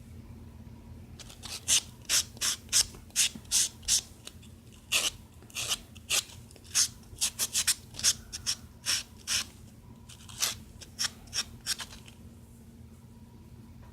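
A nail-file sanding sponge rubbed in short, quick strokes over acrylic on a thumbnail, about two rasping strokes a second, smoothing down bumps. The strokes stop about two seconds before the end.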